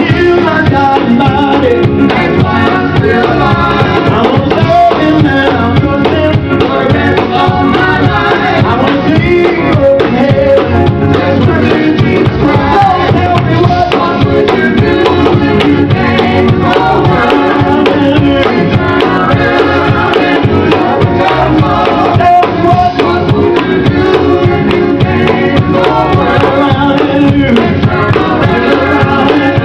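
Live gospel music: a vocal group singing with a band, drums and percussion keeping a steady beat.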